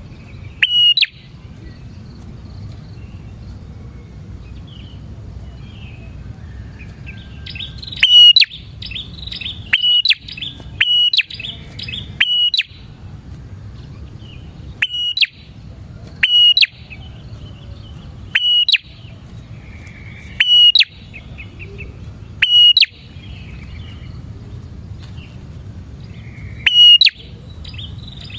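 Prinia (prenjak) calling: loud, sharp, high call notes repeated every second or two, with a quicker run of chirps about eight to thirteen seconds in, over a low steady rumble.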